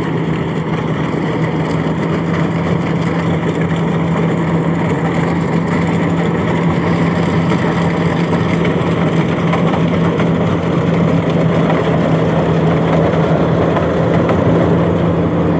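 Rice harvesting machine running, its engine giving a loud, steady drone that holds one pitch.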